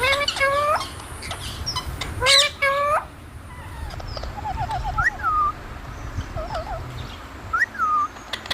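Parrot calling: a run of short, rising squawks with many overtones in the first three seconds, then softer chatter, a quick run of notes and two short whistles that rise and fall.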